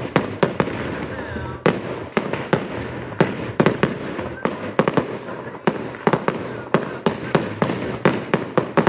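Fireworks display: a rapid, irregular barrage of sharp bangs, several a second, over a steady background rumble, with a brief lull about a second in.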